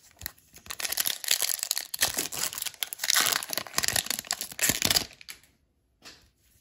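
Hockey card pack wrapper crinkling and tearing as it is ripped open and peeled away, for about four seconds before it stops suddenly.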